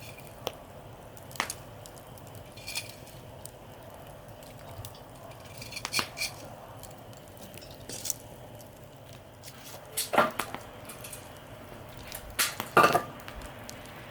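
Metal cookware and utensils clinking and knocking now and then, about eight separate clanks spread out, the loudest two close together near the end.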